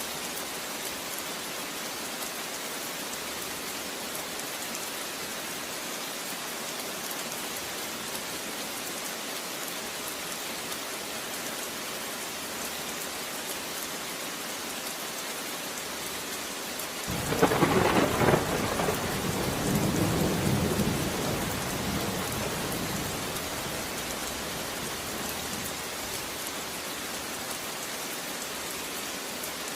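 Steady rain falling, with a clap of thunder about seventeen seconds in: a sharp crack followed by a rumble that fades away over several seconds.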